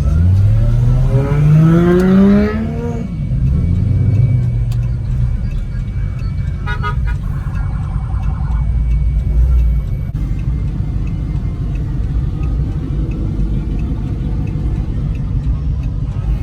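A car engine revs up in one rising sweep over the first three seconds, then settles back to a low rumble. About seven seconds in, a car horn sounds for nearly two seconds, over a steady low drone of idling engines.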